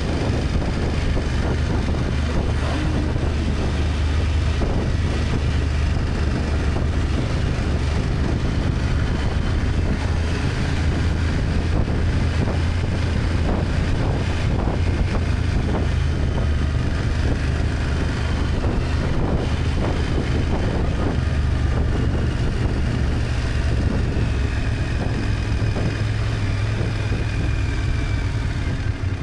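BMW F800GS parallel-twin engine running steadily while riding, with wind rushing over the microphone. The engine note rises a little near the end.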